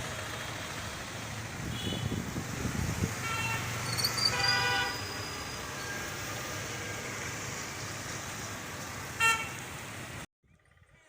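Road traffic noise with vehicle horns honking: a few short toots, a longer honk about four and a half seconds in, and a loud short beep near the end. The road noise cuts off suddenly just before the end.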